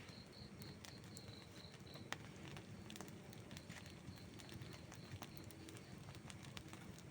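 Faint outdoor wood fire burning, with scattered sharp crackles and pops over a low, steady flutter of flame. A high chirp repeats about four times a second throughout, clearest in the first two seconds.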